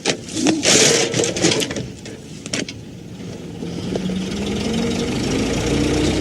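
A few sharp knocks and a short burst of hiss, then a motor vehicle's engine running, its pitch rising slowly as it speeds up.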